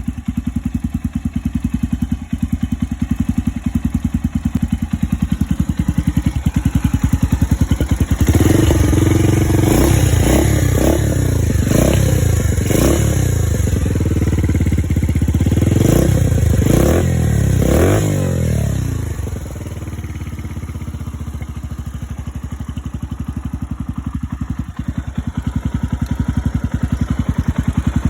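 Suzuki Grasstracker Big Boy's 250 cc air-cooled single-cylinder engine idling, then revved in a series of quick throttle blips from about eight seconds in until about nineteen seconds, before settling back to idle.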